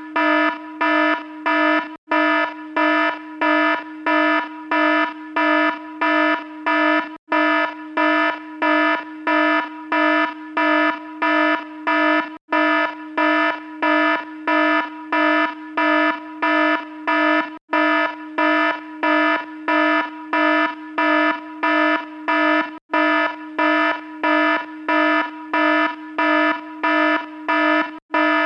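Electronic alarm beeping about twice a second, a harsh buzzy tone repeating evenly, with a brief gap every five seconds or so.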